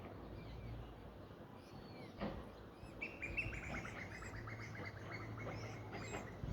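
Nightingale singing: scattered chirps, then about three seconds in a fast run of repeated notes, roughly seven a second, slowly dropping in pitch for about three seconds. A short knock comes about two seconds in.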